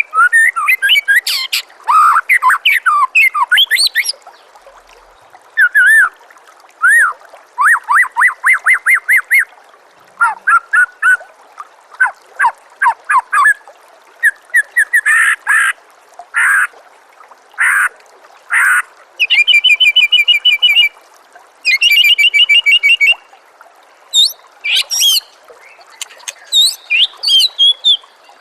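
White-rumped shama (murai batu) singing a loud, varied song of whistled glides, rapid trills and fast repeated notes, in phrases of a second or two with short pauses between. A steady trickle of water runs underneath.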